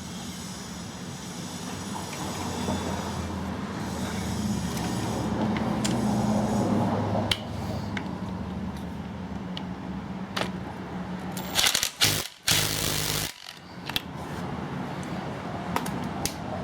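Electric impact wrench hammering a pit bike's clutch nut tight in a loud burst of a second or two about twelve seconds in. Before that come tool-handling clicks and scrapes over a steady background hum.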